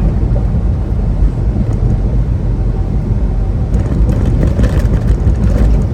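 Semi truck driving at highway speed, heard from inside the cab: a steady, loud low drone of engine and road noise. Near the end it turns rougher, with a run of faint knocks.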